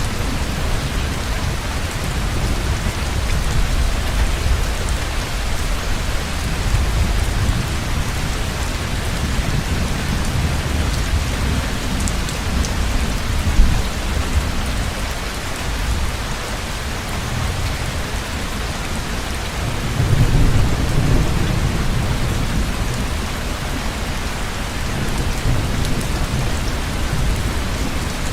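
Heavy rain falling steadily, with low rolling thunder rumbling underneath, one swell of thunder louder about two-thirds of the way through, and a brief sharp crack near the middle.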